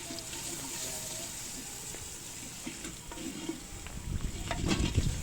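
Onion and tomato masala sizzling in oil in a pot while it is stirred with a spoon. The stirring and scraping get louder about four seconds in, with a few knocks against the pot.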